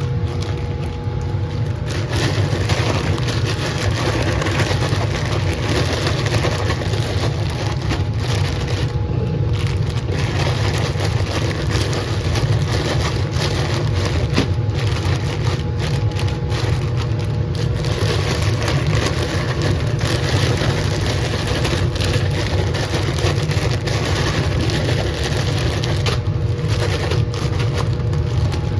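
Laminar flow hood fan running with a steady low roaring, while bags of inoculated oat grain spawn are shaken, the grain rattling and the plastic bags crinkling.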